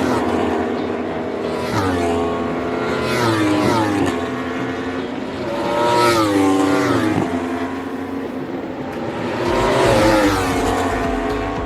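Yamaha racing motorcycles revving hard and passing one after another on the track, each engine's pitch rising through the gears and then dropping as it goes by. The passes are loudest about three, six and ten seconds in.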